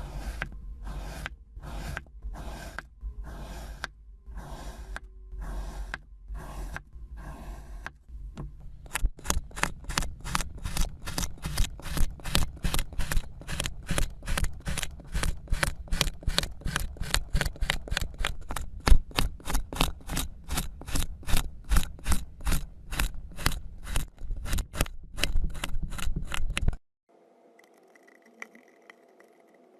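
Rhythmic scraping strokes, about two a second, then faster at about three a second, cutting off suddenly near the end.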